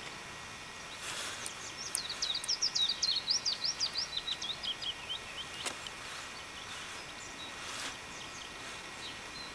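A songbird singing a fast run of about twenty short, sliding notes that falls in pitch over about three and a half seconds, with a few scattered notes after it, over steady outdoor background noise. A single sharp click comes partway through.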